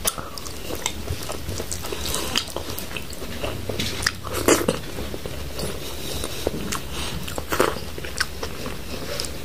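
Close-miked open-mouthed chewing of a handful of rice and curry eaten by hand: a string of wet mouth clicks and lip smacks, loudest about four and a half and seven and a half seconds in.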